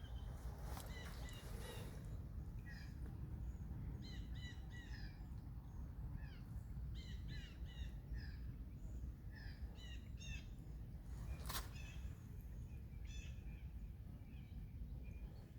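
Birds calling: many short, repeated chirping notes over a steady low rumble, with one sharp click about three quarters of the way through.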